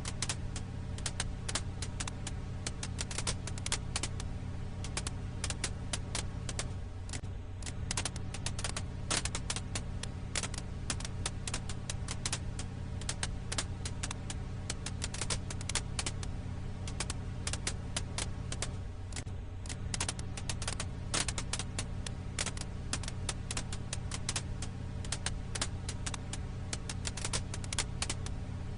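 Firewood crackling: dense, irregular sharp pops and snaps, many a second, over a steady low hum.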